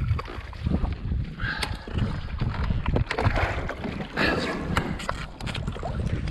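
Wind buffeting the microphone and water splashing around a kayak, with several short surges of splashing and scattered sharp knocks.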